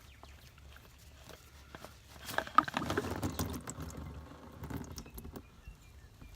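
Oil filter being spun off with quick turns: light clicks and scraping, then a sharp click about two and a half seconds in as engine oil splashes out and patters down for a couple of seconds before easing off.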